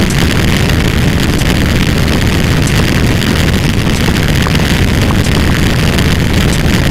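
A loud, dense, steady roar of many sound effects layered on top of one another, heaviest in the low end, with a few faint clicks.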